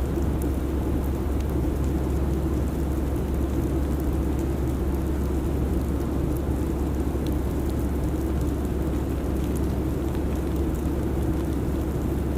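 Steady airliner cabin noise in flight: a constant low rumble of engine and airflow with a hum above it, unchanging throughout, with a few faint scattered ticks.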